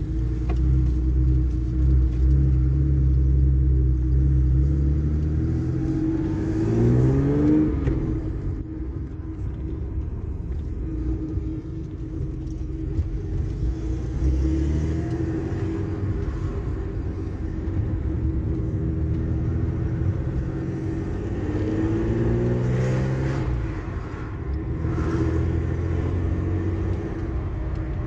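BMW E3 3.0 Si's 3.0-litre straight-six running while the car is driven, with a steady hum between two stretches of acceleration. The engine pitch rises as it revs up about a quarter of the way in and again near the end.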